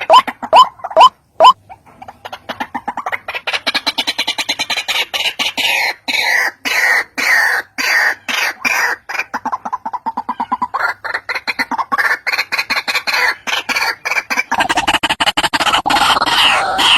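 White-breasted waterhen (ruak-ruak) calling: a few loud, short, rising calls about three a second, then a long, fast, stuttering run of croaking notes, many per second, turning harsher and denser near the end.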